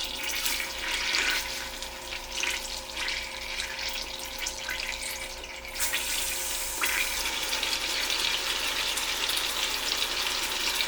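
Chicken thigh pieces sizzling in hot melted butter in an Instant Pot on the sauté setting, with small clicks of pieces being laid in; the sizzle gets louder and fuller about halfway through as more chicken goes in.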